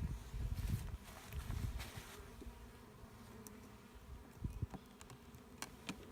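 Honeybees buzzing in a steady hum around an opened hive, with a few low bumps and some sharp clicks near the end.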